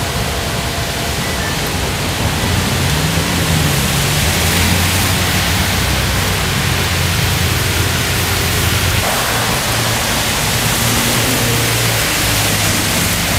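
Heavy rain pouring down, a loud steady hiss, with a low hum underneath that wavers in pitch a few seconds in as trams move on the line.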